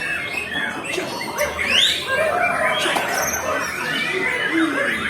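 White-rumped shama (murai batu) singing a fast run of whistled glides and chirps, over a constant mix of other birdsong and voices.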